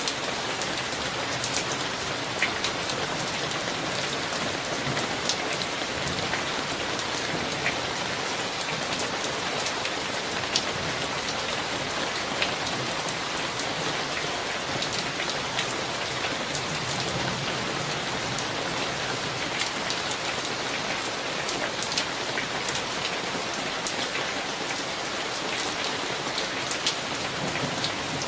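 Steady summer thunderstorm rain, with many sharp individual drops ticking on a hard surface close by.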